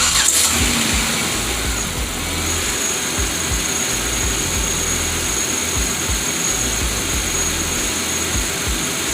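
2007 Pontiac Grand Prix's 3.8-litre V6 starting up and then idling steadily, with a steady high whine over the running engine. Freshly oiled, it runs without the tick it had, as the owner reports.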